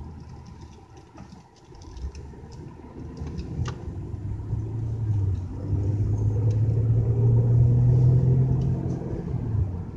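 Car engine and road rumble heard from inside the cabin, with a low hum that builds about two seconds in as the car picks up speed, is loudest near the end, then eases off.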